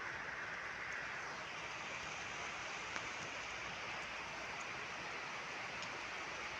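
Steady rain falling, an even hiss with an occasional single drop ticking, about three seconds in.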